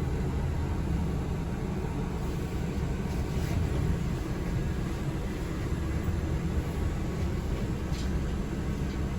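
Steady low rumble and road noise inside the passenger cabin of a moving city transit vehicle, with a couple of faint knocks.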